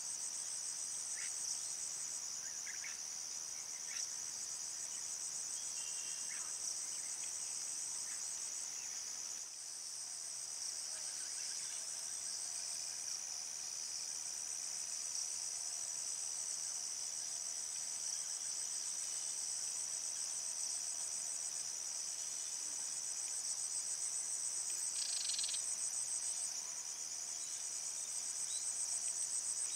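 Steady high-pitched trilling chorus of insects, with a few faint short chirps scattered through it.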